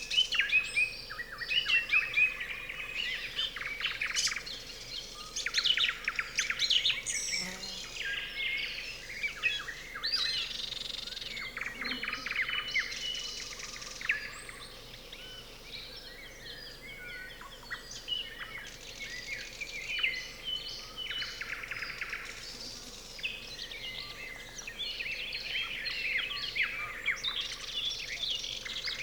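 Nightingales singing, with other songbirds overlapping: many short, varied phrases of whistles and rapid trills following one another. The song is loudest in the first several seconds, eases off midway and builds again near the end.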